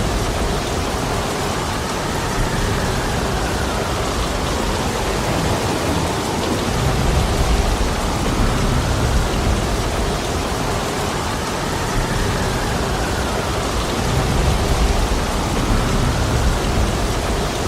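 Heavy rain pouring steadily, with strong wind gusting through it in low rumbling swells that build twice.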